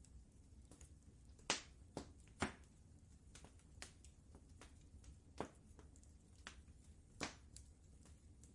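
Wood fire crackling in a fireplace: irregular sharp pops and snaps, a cluster of the loudest between about one and a half and two and a half seconds in, over a low steady rumble.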